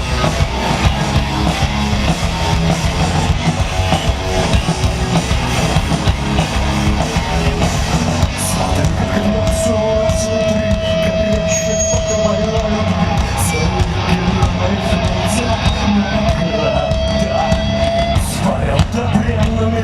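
Live rock band playing an instrumental passage, loud and full, with a long held high note around the middle and again near the end.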